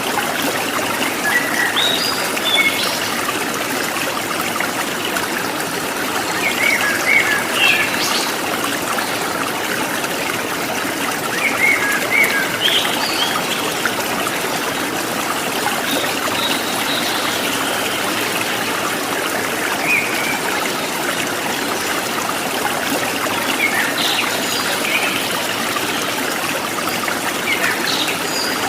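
Stream water running and trickling steadily, with short bird chirps and calls breaking in every few seconds.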